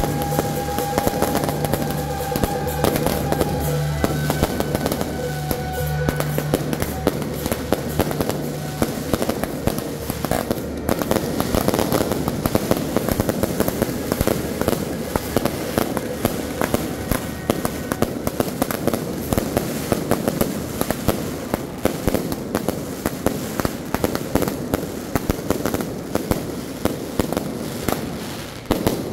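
Fireworks cakes fired from the street, a continuous barrage of rapid crackling bangs and bursts overhead.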